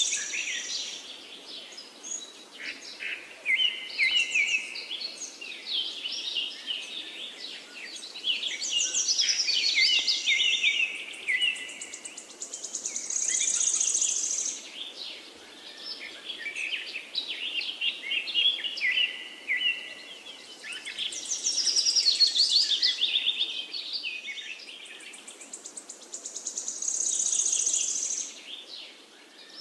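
Songbirds chirping and singing, many short chirps overlapping, with a rapid high trill returning every several seconds.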